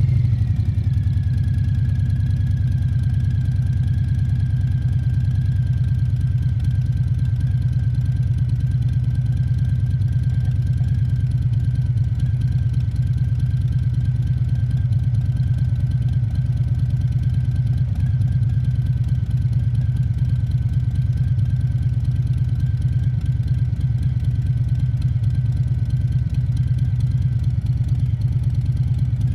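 Harley-Davidson Fat Bob 114's Milwaukee-Eight 114 V-twin idling steadily just after being started, with a faint high whine that settles slightly lower in the first couple of seconds and then holds.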